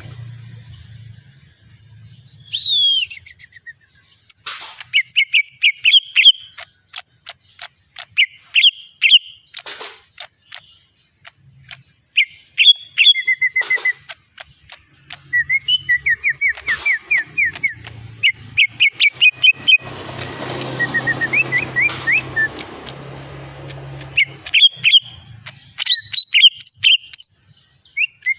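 Cucak ijo (green leafbird) song used as a lure call: loud, varied bursts of rapid chirps, whistles and trills. Short pauses separate the bursts, and a low hum runs under parts of it.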